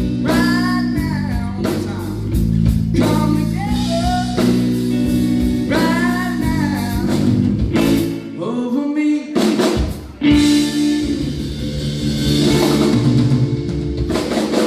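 Live country-rock band playing, with a male lead vocal over electric guitar and drum kit. The singing stops about eight seconds in, and after a brief break with drum hits the band plays on without vocals.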